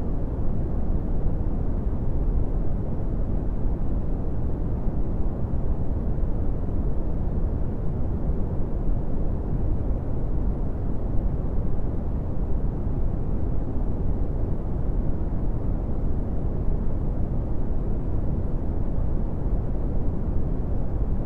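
Brown noise: a steady, deep rumbling hiss, loudest in the low end and dull in the highs, with no changes or events.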